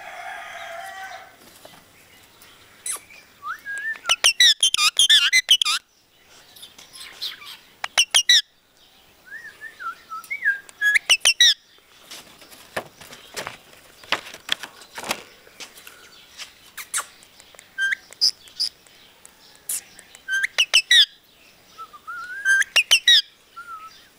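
Pet parrot chirping and whistling in short bursts of quick up-and-down notes, mixed with sharp clicks and rustles.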